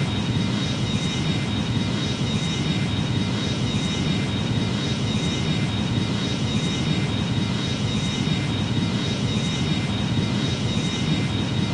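Jet airliner engines running steadily, a low even rumble with a thin high whine held on one pitch.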